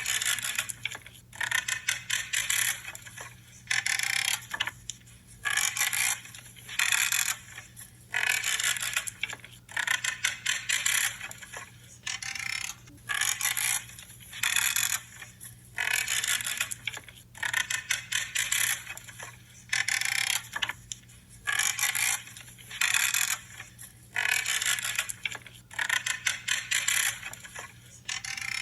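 Branches being cut, a crackling creak with each cut, repeated over and over about once a second.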